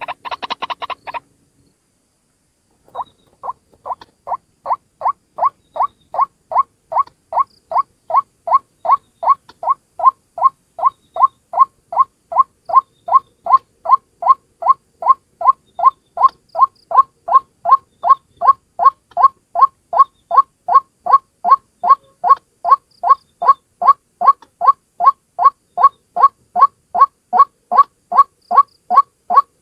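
White-breasted waterhen (ruak-ruak) calling. A brief burst of rapid notes stops after about a second, then a long monotonous series of short calls starts, nearly three a second, growing louder at first and then holding steady.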